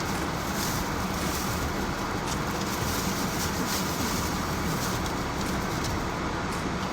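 Steady low hum and hiss inside a car, with no distinct events.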